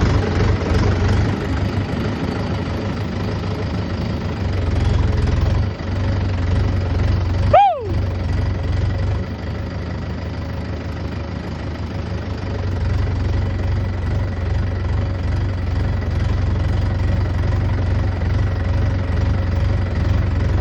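A single short peafowl call, rising then falling in pitch, about seven and a half seconds in, over a steady low mechanical hum like an engine running.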